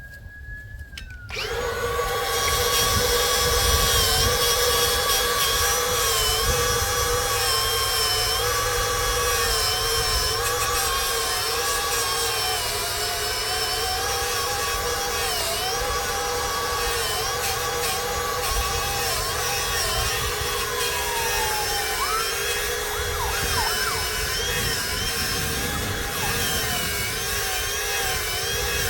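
Electric grinder with a wire brush starts up about a second in and runs steadily while cleaning fire hydrant parts, its pitch sagging now and then as the brush is pressed onto the work.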